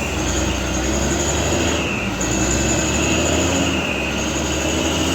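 Heavy diesel truck engine labouring steadily on a steep climb, with a continuous high-pitched whine over the low engine rumble.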